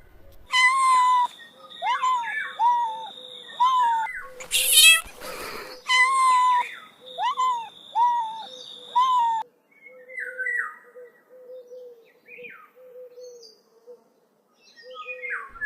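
A kitten mewing over and over in short, rising-and-falling high-pitched calls about half a second apart, over a steady high tone. A brief rustling noise comes about five seconds in. The mews grow fainter and sparser after about nine seconds.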